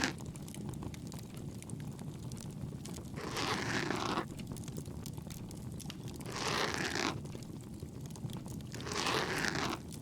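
Ear pick scraping inside the ear canal, close up, in three scratchy strokes about a second long, over a steady crackling bonfire.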